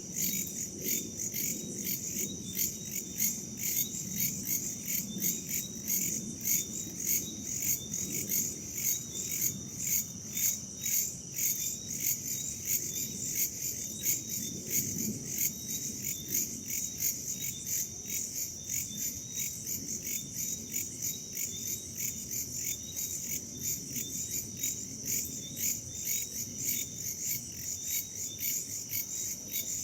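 Chorus of crickets and other insects chirping steadily in rapid, even pulses, with a soft low rumble of wind underneath.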